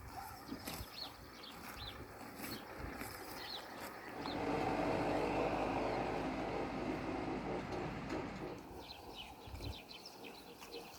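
A passing motor vehicle runs for about five seconds, swelling about four seconds in and fading away, over small birds chirping before and after.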